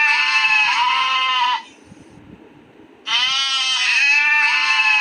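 Sheep bleating: a long bleat ends about a second and a half in, and after a short pause the same bleat starts again about three seconds in.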